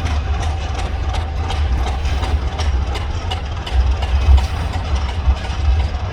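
ChME3 shunting diesel locomotive's engine running with a heavy, steady low rumble, with scattered light clicks over it.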